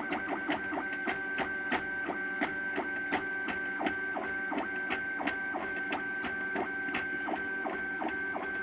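MakerBot Thing-O-Matic 3D printer at work, its stepper motors whining in several steady pitches with rapid, uneven ticks as the print head moves, on what may be the last top layer of the print.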